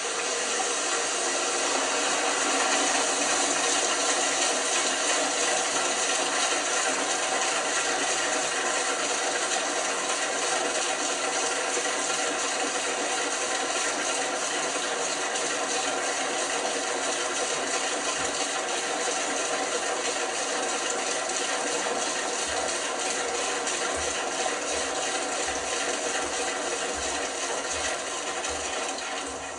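LG washing machine running with a steady mechanical whir and several fixed tones; it starts at the outset and cuts off near the end.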